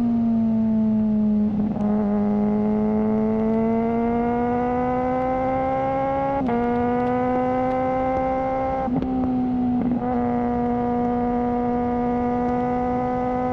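Suzuki GSR600's inline-four engine running through a GPR Ghost aftermarket exhaust, holding a fairly steady high-revving note. The note sags a little, climbs slowly, then levels off, with four short breaks where the pitch jumps.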